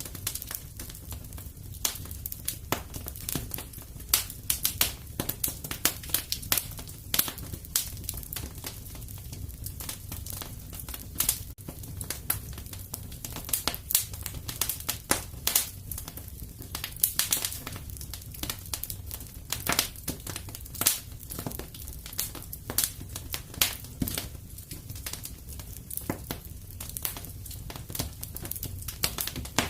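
Wood fire crackling and popping in a fireplace: irregular sharp snaps over a steady low rumble of the flames.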